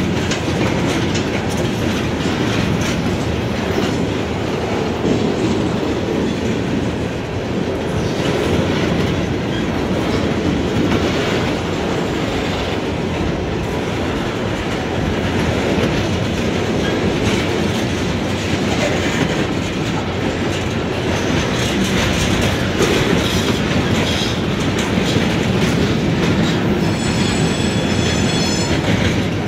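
Freight train cars rolling past a grade crossing: a steady rumble with wheels clicking over rail joints, and a brief high squeal near the end.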